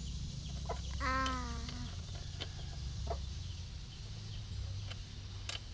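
A chicken calls once, about a second in, with a few short, sharp clicks and knocks and a steady low hum underneath.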